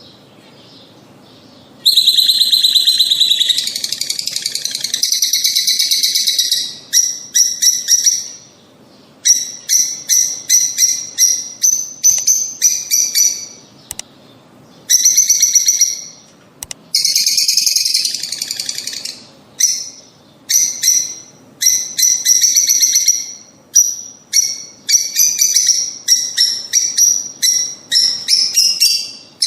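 Lovebirds chattering: quick runs of shrill, high chirps with a couple of longer unbroken bursts of chatter, starting after a quieter second or two.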